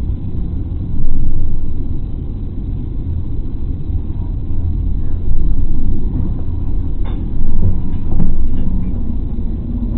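Low, muffled rumble of a moving vehicle as heard by a dashcam inside the car, swelling in loudness several times, with a few faint knocks near the end.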